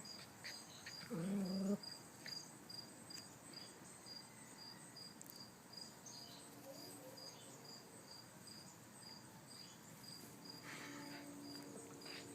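Faint, steady cricket chirping, short high pulses about three a second. About a second in there is one short low vocal sound.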